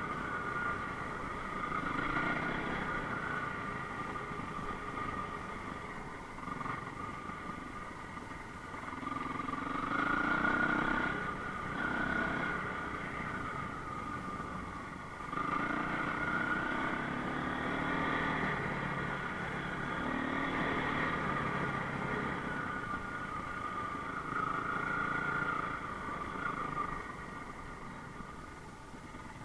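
Enduro motorcycle engine running under changing throttle, its note swelling and easing several times and dropping away near the end.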